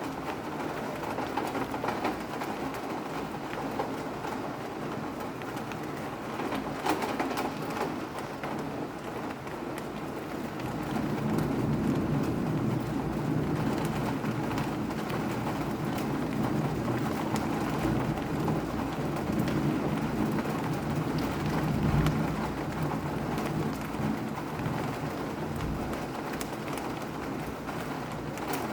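Steady rain falling, with scattered drops pattering close by. A low rumble swells about eleven seconds in and eases off after about twenty-four seconds.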